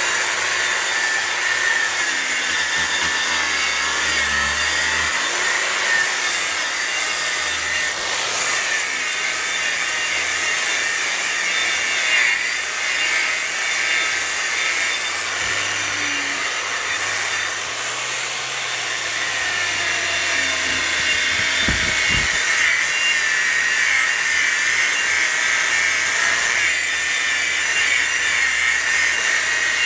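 Harbor Freight 11-amp angle grinder running continuously against wooden deck boards, grinding off a coat of Rust-Oleum Deck Restore. Its high whine drifts up and down a little as it bears on the wood.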